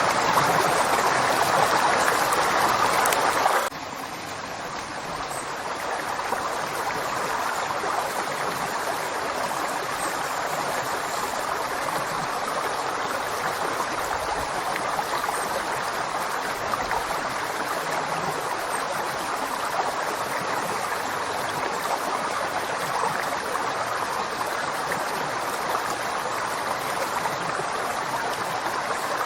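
River water flowing, a steady rush of running water. About four seconds in it drops suddenly to a softer, duller level, which then holds steady.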